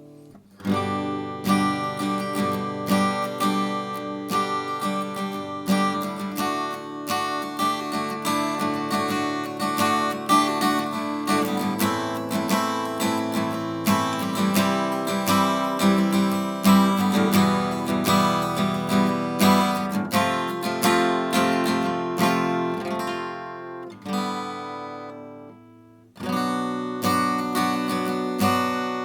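Acoustic guitar being played, with strummed chords and picked notes. The notes ring out and fade a few seconds before the end, then the playing starts again.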